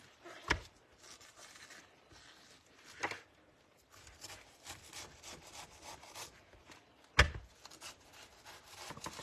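Leaves of a frozen-then-thawed cabbage being pulled apart, with a soft, rustling rubbing. A few knocks on the work surface, the loudest a thump about seven seconds in.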